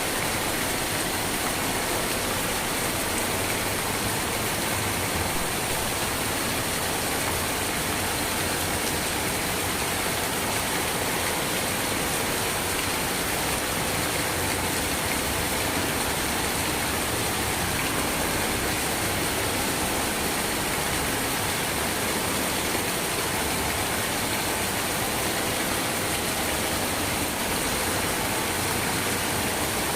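Steady rain falling, an even unbroken hiss whose loudness does not change.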